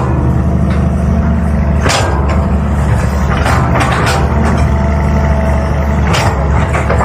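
A CAT 320 hydraulic excavator's diesel engine running steadily under load, its note shifting about two seconds in, with a few short, sharp noises from the working machine.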